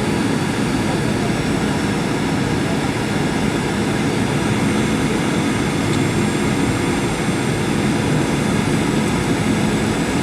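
Steady cabin noise inside a Boeing 737-800 airliner: the constant hum of its CFM56 jet engines under an even rush of airflow, with no sudden events.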